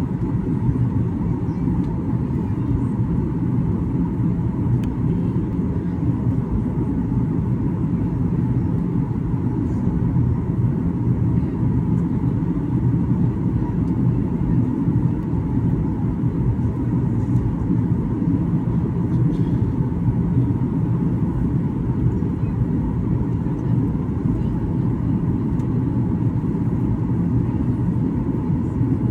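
Boeing 737-800 in flight, a steady rumble of engines and airflow as heard inside the cabin, with a faint steady hum above it and no changes.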